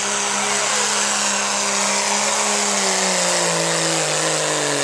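Diesel pickup truck engine running hard at high revs while pulling a sled, with a high hissing whine above it; the pitch sinks steadily over the last two seconds as the revs drop.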